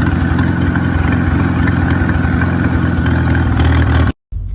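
Tractor engine running steadily with a New Holland 630 round baler, a deep hum with machinery clatter over it, cut off abruptly about four seconds in.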